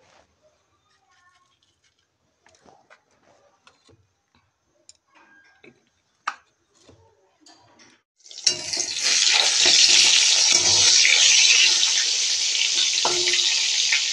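Slices of eggplant sizzling loudly in hot oil in a wok, the sizzle starting abruptly about eight seconds in and holding steady. Before that there are only a few faint clicks and handling sounds.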